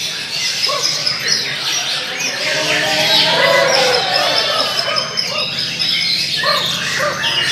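Several white-rumped shamas singing at once: dense, overlapping whistles, trills and chirps with no pause. A murmur of voices sits underneath.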